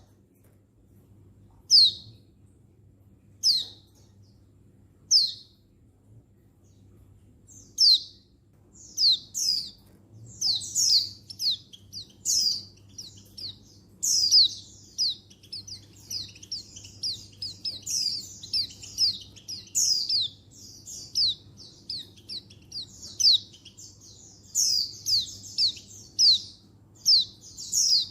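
Oriental white-eye (pleci buxtoni), a female's call to draw a male: sharp, high down-slurred chirps, single ones every couple of seconds at first, then from about nine seconds in a fast chatter of many notes. A faint low hum sits underneath.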